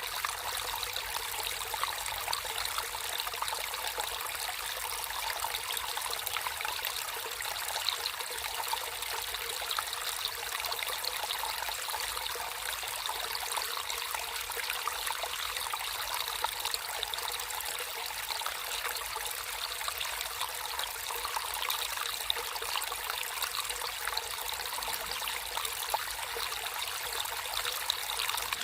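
Water flowing in a natural stream: a steady, high trickling and splashing babble that never lets up.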